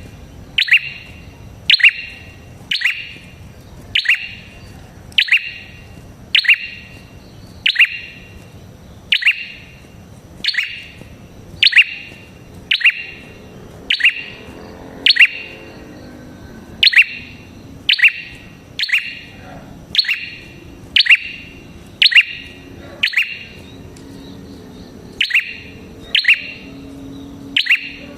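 A prenjak kepala merah calling over and over: a short, sharp chirp repeated evenly about once a second, a lure call meant to draw other prenjak to answer.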